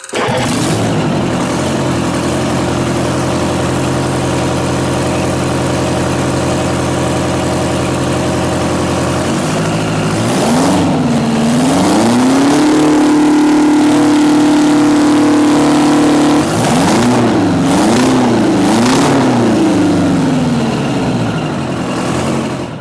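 Detroit Diesel 8V53 two-stroke V8 diesel, run without its turbocharger, running steadily and then revved. About ten seconds in it is blipped up and down, held at high revs for about four seconds with a howling wail, then blipped several more times before settling.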